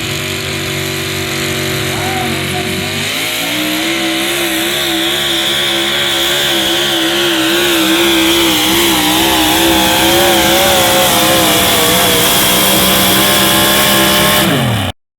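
A pulling vehicle's engine running steadily, then revving up about three seconds in and held at high revs, its pitch wavering up and down. It drops and cuts off near the end.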